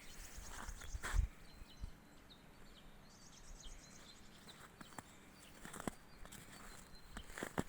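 A few footsteps of someone walking on the forest floor, with small birds calling high and thin; a quick run of chirps comes about three seconds in.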